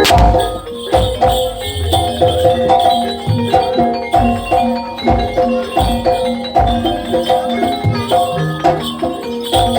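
Jaranan Dor gamelan ensemble playing: quick, repeating metal gong-chime notes over low drum beats, with a loud struck hit at the very start.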